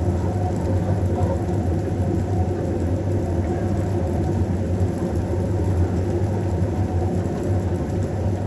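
Steady low rumble at an even level.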